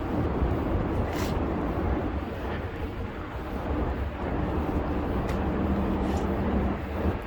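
City street traffic: a steady low rumble of passing vehicles, with an engine's hum rising for a couple of seconds near the end and a few brief hisses.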